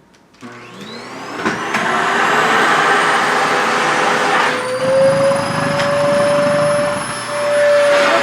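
SHARP EC-KP7F-A vacuum cleaner switching on about half a second in, its motor spinning up with a rising whine, then running steadily with a rush of suction air. About five seconds in the air rush drops and a steady tone grows stronger, then the rush returns near the end.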